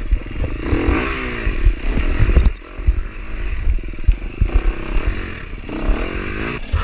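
Dirt bike engine revving up and down in short, repeated bursts on a slow, technical trail section, with knocks and clatter from the bike underneath.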